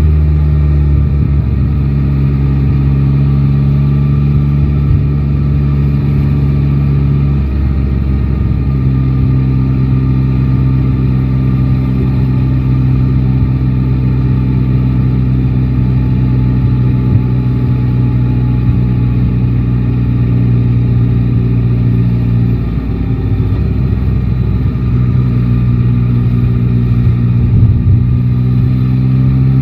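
Yamaha Tracer 9 GT's 890 cc three-cylinder engine running at steady road speed. Its note drops and resettles twice, about a quarter of the way in and again about three-quarters in, over a steady low rumble.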